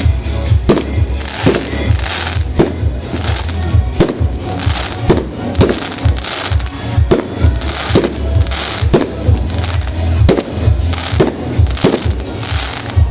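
A fireworks display: shells bursting in a rapid, irregular series of sharp bangs, about one or two a second, over a steady low rumble.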